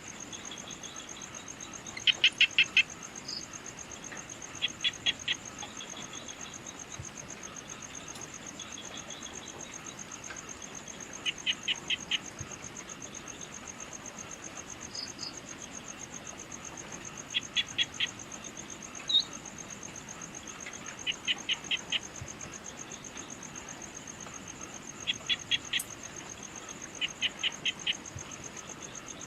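Evening insect chorus: a steady, high, rapidly pulsing trill. Over it, a call of four or five quick sharp notes repeats every few seconds and is the loudest thing heard, with an occasional single short chirp between.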